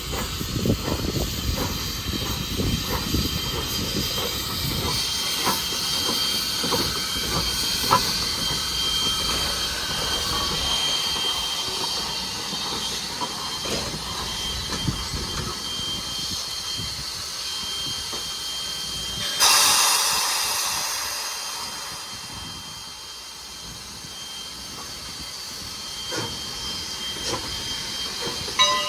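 Steam locomotive and its train rumbling and clattering along the rails, the running noise easing off after about ten seconds. About two-thirds of the way through comes a sudden loud hiss of released steam that fades away over several seconds.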